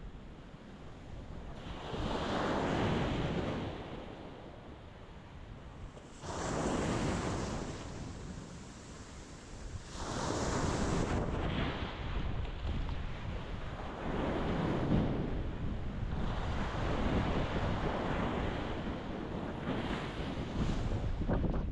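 Ocean waves breaking against a rocky shore in surges every few seconds, each crash washing out into hiss, over a steady low rumble of wind on the microphone.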